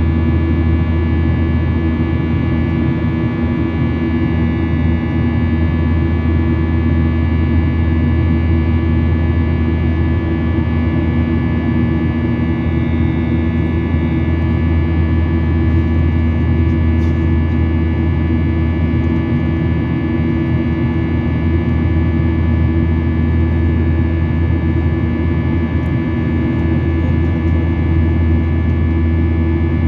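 Airliner cabin noise in flight: a steady, loud drone of the engines and rushing air, with a constant low hum and a few steady tones that do not change.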